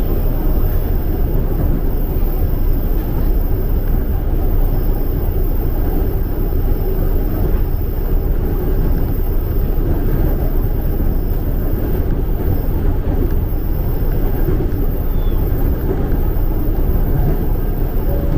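Steady rumble of a 205-series electric commuter train running, heard from inside the car.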